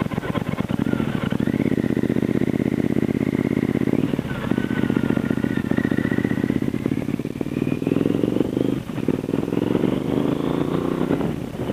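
Triumph America parallel-twin motorcycle engine running under way, heard from the handlebars. A deep, steady engine note dips briefly twice and rises in pitch as it accelerates near the end. A faint high whine climbs slowly alongside it.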